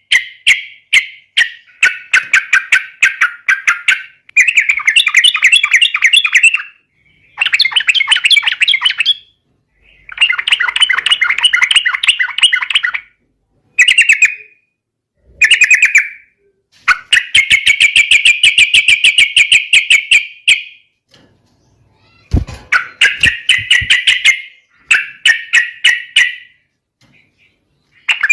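Yellow-vented bulbul (trucukan) singing loud, rapid chattering phrases of one to a few seconds each, separated by short pauses.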